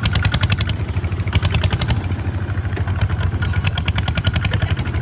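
Tractor engine running steadily under way, with a fast, even clatter.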